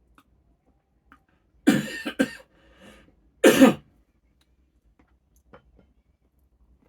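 A person coughing: a double cough a little under two seconds in, then one more cough about a second and a half later.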